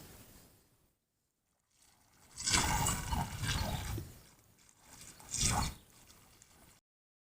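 Water splashing and sloshing in two bursts, a longer one about two and a half seconds in and a short one a few seconds later, then the sound cuts off.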